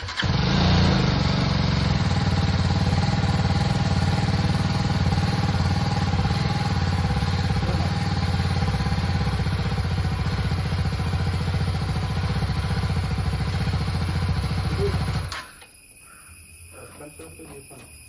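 BMW G310 GS's 313 cc single-cylinder engine firing up, running steadily for about fifteen seconds, then switched off and cutting out suddenly.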